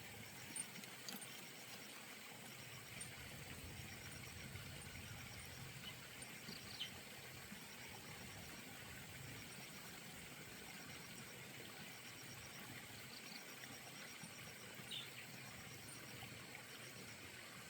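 Faint outdoor ambience: a steady low hiss with a high, even, ticking trill throughout, and two brief chirps, about a third of the way in and near the end.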